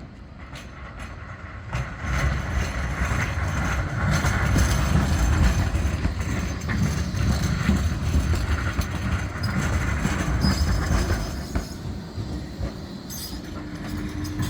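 Bombardier Flexity 2 tram running past on the rails: the rumble of its wheels builds about two seconds in, is loudest through the middle, then eases off.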